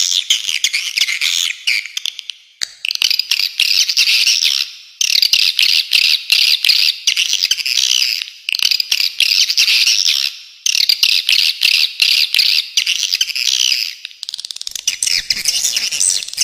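Swiftlets twittering and chattering, a dense, high chirping in bursts of about two seconds separated by brief pauses. A low rushing noise joins near the end.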